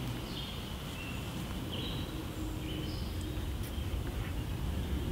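Birds chirping a few short times over a steady low rumble of outdoor background noise.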